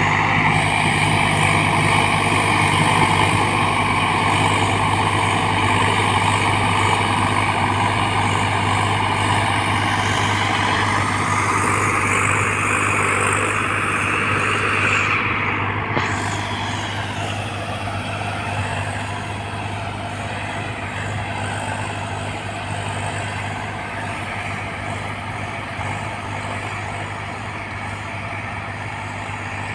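Swaraj 744 XT tractor's three-cylinder diesel engine running steadily under load while driving a rotavator, with a higher whine over the engine hum. The whine climbs in pitch about twelve seconds in, drops sharply around sixteen seconds, and the sound then eases slightly.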